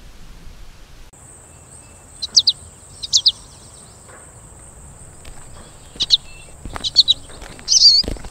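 Forest ambience: a steady high insect buzz starts about a second in, over which a small songbird chirps in quick groups of two or three short notes, five times. A few soft low thuds come near the end.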